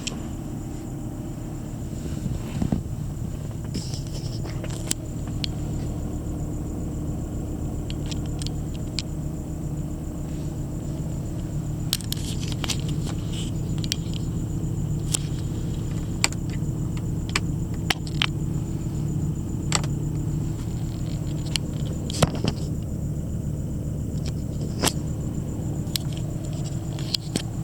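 2000 Volvo V70 XC's turbocharged five-cylinder engine idling steadily in the minute after a cold start, with scattered sharp clicks over the steady hum.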